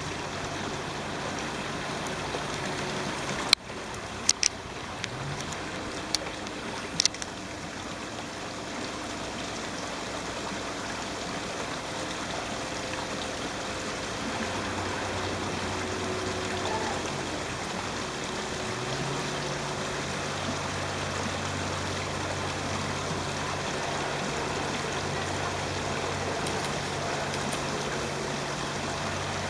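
Steady rushing of flowing stream water, with a low hum underneath that grows stronger past the middle and a few sharp clicks about four to seven seconds in.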